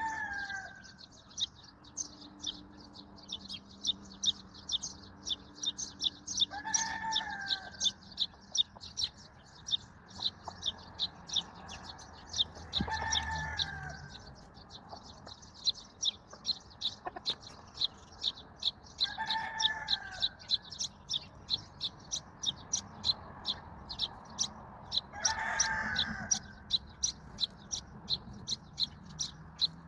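Sparrows chirping quickly and without pause, about two to three chirps a second. About every six seconds, a louder, drawn-out arched call from another animal cuts in, five times.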